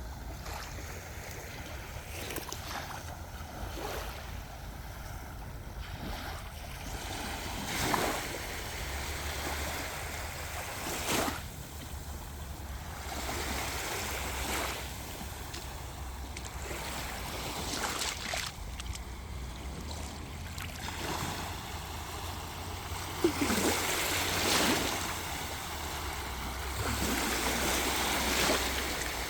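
Sea waves washing onto a beach, with louder surges every few seconds as the surf breaks, over a low rumble of wind on the microphone.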